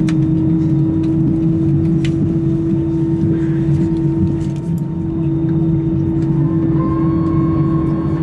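Airbus A320 cabin noise during pushback: a steady mechanical drone over a low rumble, with a second, higher whine joining near the end.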